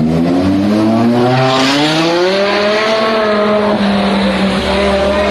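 A sports car's engine accelerating hard, its pitch climbing for about two and a half seconds and then holding steady at high revs.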